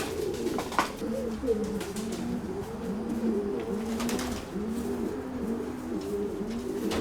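Several domestic pigeons cooing steadily in a loft, their low coos overlapping and repeating, with a few light clicks mixed in.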